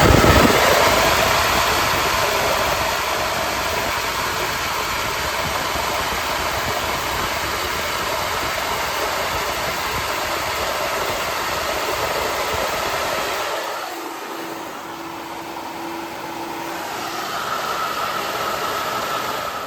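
Flow bench running an exhaust flow test on an LS cathedral-port cylinder head, its vacuum motors pulling a loud, steady rush of air through the port with the valve at full lift. The rush starts abruptly, eases and thins about 14 seconds in, then builds again near the end.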